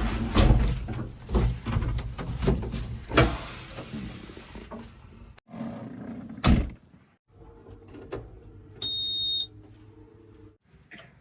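Heavy diesel machinery running, with loud clunks and knocks in the first half, cut abruptly several times. A short high beep sounds a little before 9 s.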